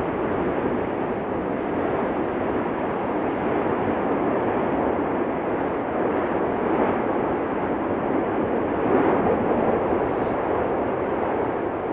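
Continuous rushing noise of the erupting Cumbre Vieja volcano, steady and even, swelling slightly a couple of times.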